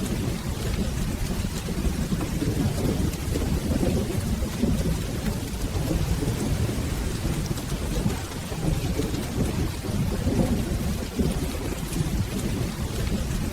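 Steady rain with a low, continuous rumble of soft rolling thunder.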